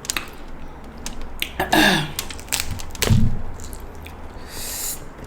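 Steamed king crab shell being cracked and pulled apart by hand: a run of sharp cracks and clicks, with a short falling grunt about two seconds in.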